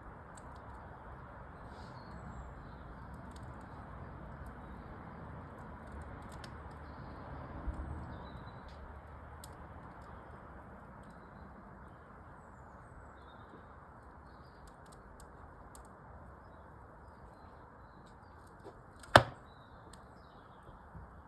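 Wood fire in a fireplace crackling, with scattered small snaps, a dull thump about eight seconds in and one loud sharp pop near the end. Faint bird chirps sound in the background.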